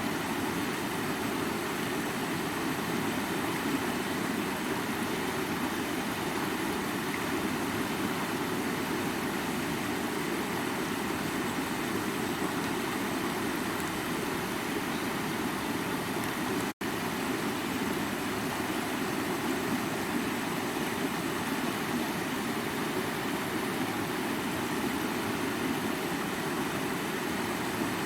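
Rushing stream running and splashing over rocks: a steady, even water noise, fullest in the low-middle range, with a split-second break in the sound about two-thirds of the way through.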